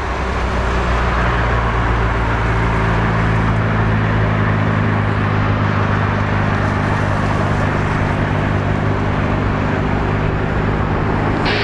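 Jet airliner engines running: a steady low hum under a broad rushing hiss that builds over the first few seconds, then holds.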